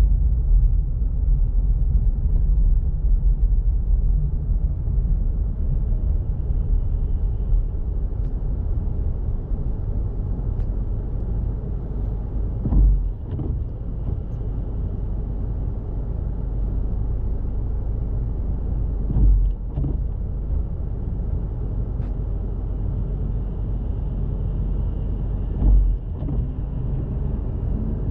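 Car driving, with a steady low road and engine rumble. Three short thumps come about six and a half seconds apart in the second half.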